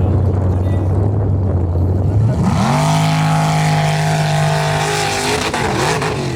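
A Formula Offroad race car's engine running low, then revving up sharply about two and a half seconds in. It holds high revs for around three seconds with a hiss over the top, then the revs fall away near the end.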